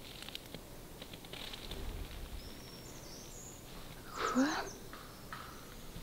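A bird calling: a thin, high whistle near the middle, then a louder, harsh call about four seconds in.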